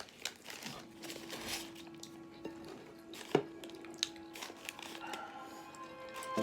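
Close-up eating sounds of fried chicken: soft wet chewing with crackles and small sharp clicks, the loudest a little past three seconds in, over quiet background music.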